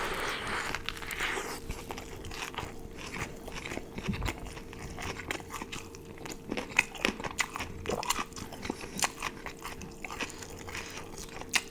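Close-miked biting and chewing of an In-N-Out burger with crisp lettuce: a steady run of wet crunches and sharp clicks.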